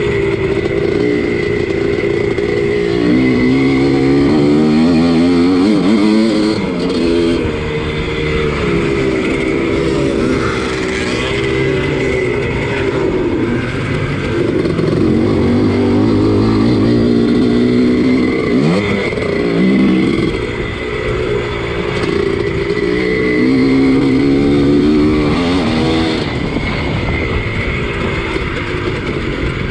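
Single-cylinder two-stroke engine of a 1983 Husqvarna 250CR motocross bike, racing. It revs up and down over and over as the throttle is opened and closed, its pitch repeatedly climbing and dropping.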